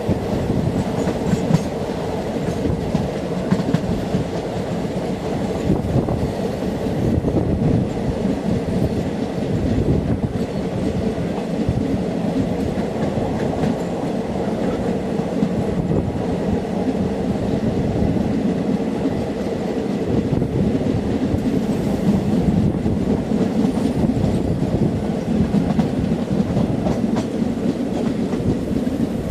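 Jhelum Express passenger train in motion: a steady running noise of the wheels on the rails, with most of its energy low in pitch.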